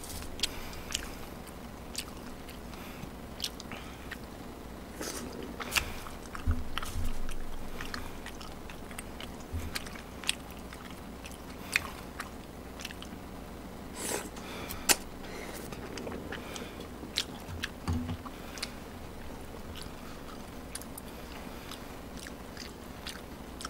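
A person eating close to the microphone: chewing, with irregular sharp clicks and taps of utensils against food bowls.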